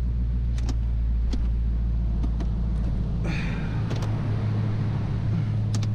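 Dodge Challenger's engine idling with a steady low hum whose note shifts slightly about two-thirds through. A few light clicks sound over it.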